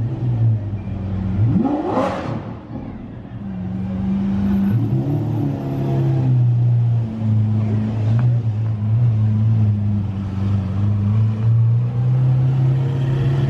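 Lamborghini Aventador SVJ's V12 running at a low, steady drone while pulling away slowly, with one quick rev that rises and falls about a second and a half in, and another rev starting to climb near the end.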